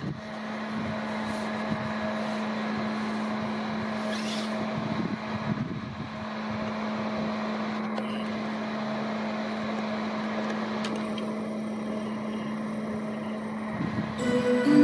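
Steady electric hum of a train standing at a railway station platform, with a brief hiss about four seconds in. Near the end a station public-address chime begins.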